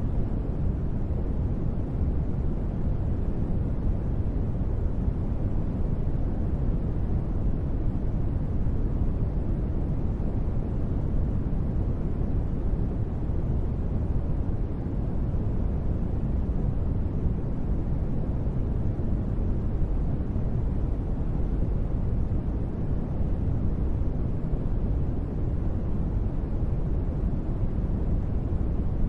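Steady deep noise ambience, a low even rumble with little hiss, unchanging throughout.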